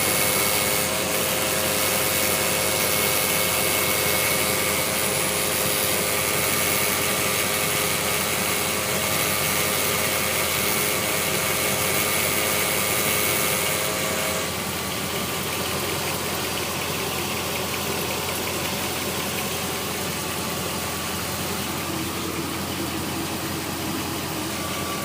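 Jeep Grand Cherokee WJ engine idling after a cold start, with a rattle from around the 545RFE transmission's bell housing whose cause the owner does not know. About 14 seconds in, the rattle stops suddenly and the engine idles on steadily and a little quieter.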